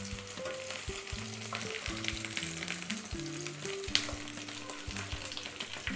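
Oil sizzling and crackling in a frying pan as breaded potato cutlets shallow-fry on their second side, with a sharp click a little before the four-second mark. Soft background music with held notes plays underneath.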